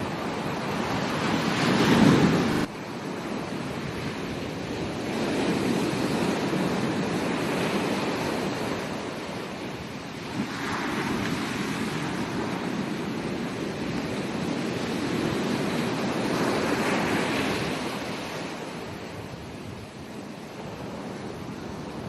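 Ocean waves breaking and washing onto a beach, the surf swelling and falling several times. The loudest surge comes about two seconds in and cuts off sharply.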